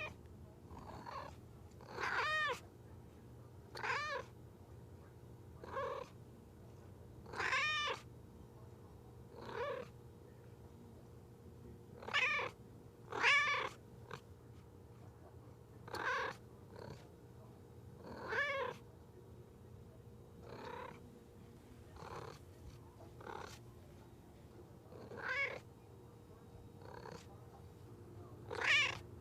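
A domestic cat meowing over and over in short, separate meows, one every second or two, some louder than others.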